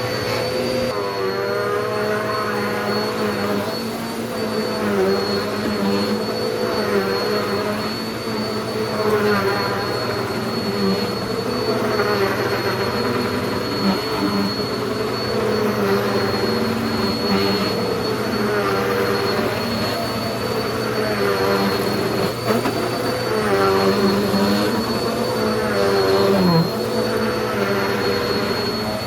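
Hoover pet upright vacuum cleaner running on a rug, with a steady high whine and a lower motor tone whose pitch wavers up and down over and over.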